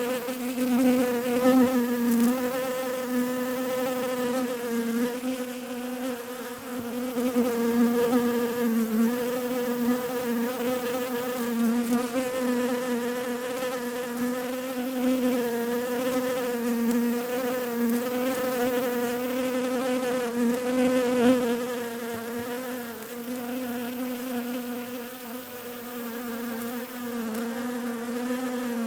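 Bees buzzing: a continuous droning hum that wavers slightly in pitch and swells and fades in loudness, dipping for a few seconds past the middle.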